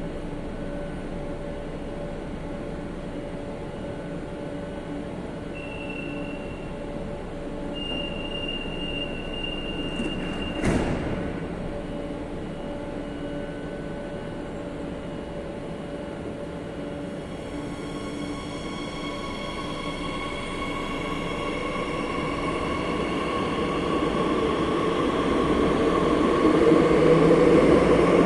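Madrid Metro Line 8 train running on the rails, with a thin high squeal for a few seconds and a single sharp knock about eleven seconds in. Later a whine of several tones sets in and the running grows steadily louder.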